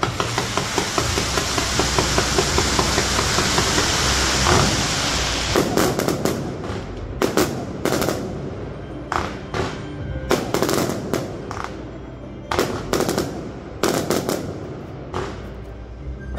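Fireworks display: a rapid, dense volley of crackling reports for the first five seconds or so, then separate loud bangs from shells bursting, about a dozen, at irregular gaps.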